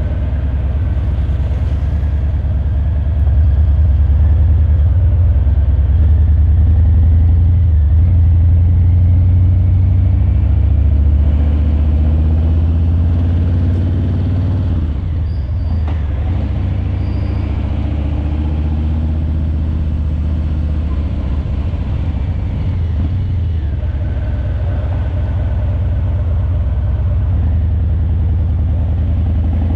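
Harley-Davidson Breakout 117's Milwaukee-Eight 117 V-twin running at low road speed through Vance & Hines Eliminator 300 slip-on mufflers: a deep, steady exhaust note that gets louder about three seconds in and eases back off after about ten.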